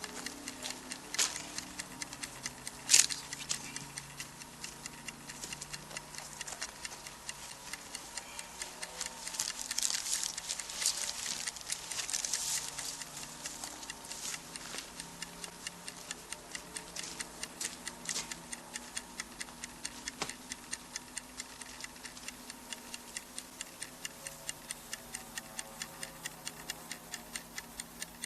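Wood campfire crackling, with a few sharp pops early on, the loudest about three seconds in, and a hissing, crackling stretch about halfway through. Under it runs a steady, even ticking of about three clicks a second.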